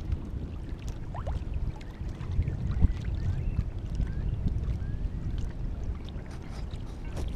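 Water sloshing and lapping against a kayak hull, with uneven low rumble of wind on the microphone and scattered small splashes and clicks.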